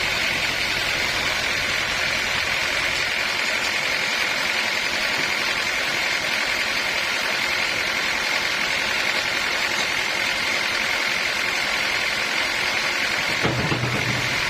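Sawmill machinery running steadily with an even, high-pitched hum. A short low rumble comes in about a second before the end.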